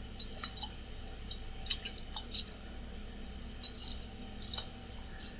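Light, scattered glass clinks and taps from glassware being handled, over the steady hum of an air conditioner.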